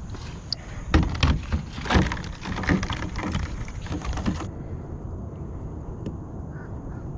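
Irregular knocks, clatters and scrapes of gear being handled in a kayak for about four and a half seconds, over a steady low rumble of wind on the microphone.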